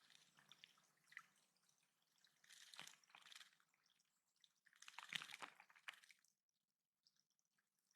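Water dripping and splashing in a small backyard bird pond and stream, faint, with two louder splashy bursts in the middle.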